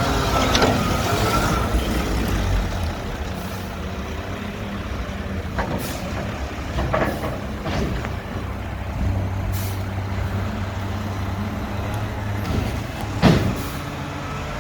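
Mack garbage truck with a McNeilus front-loader body: the diesel engine runs steadily under a few sharp clanks and short air-brake hisses, with the loudest bang near the end.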